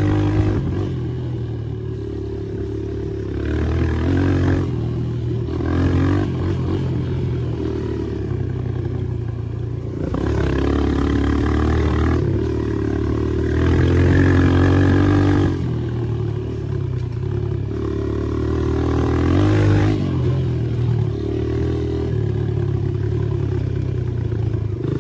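Dirt bike engine running under way, revving up and easing off again and again as the throttle is worked.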